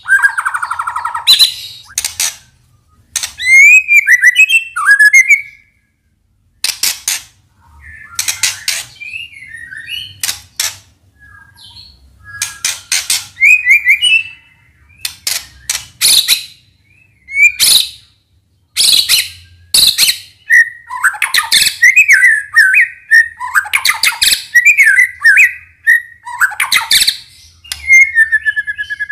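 White-rumped shama (murai batu) singing a long, varied song: loud whistled phrases that glide up and down, mixed with rapid runs of sharp, clicking, rattling notes, delivered in bursts with short pauses between.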